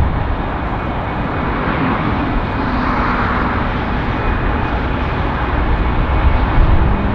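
Heavy jet airliner's engines at takeoff thrust during its takeoff roll: a loud, steady engine noise, with a faint low hum coming in near the end.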